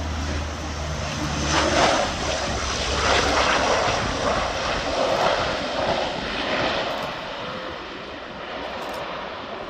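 Antonov An-12's four turboprop engines, swelling to their loudest in the middle and fading away toward the end as the plane goes by on arrival.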